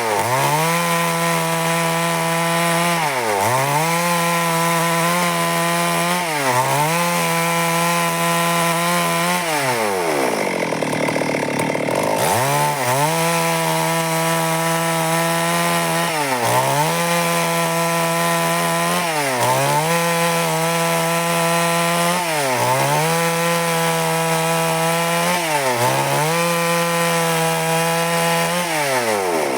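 Stihl MS 382 two-stroke chainsaw running at high revs while cutting wood. Its pitch dips and climbs back about every three seconds, with one longer drop toward idle about a third of the way in before it revs up again.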